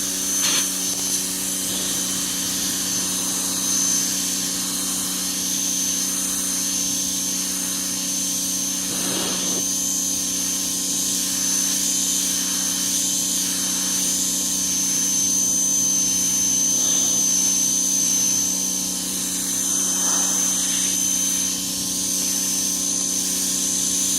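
Ryobi 1700 PSI electric pressure washer running steadily, kind of loud: a constant motor-and-pump hum with a thin high whine, over the hiss of the water jet spraying a wooden deck.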